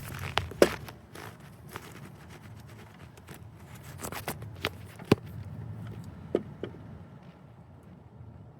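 Scattered clicks and knocks of hand tools and fittings being handled while turbo oil lines are refitted, over a low steady rumble. The sharpest knocks come about half a second in and about five seconds in.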